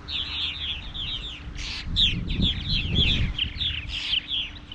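Many purple martins calling at once: a dense, continuous chatter of short overlapping chirps. The colony is loud because it is fledging day. A low rumble comes in about two to three seconds in.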